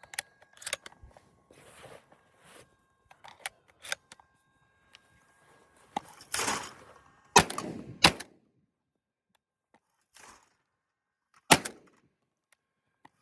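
Handling of a Benelli M2 20-gauge semi-automatic shotgun: small metallic clicks, then a rustle and three sharp clacks, two close together past the middle and one near the end, as when shells are loaded and the action is worked.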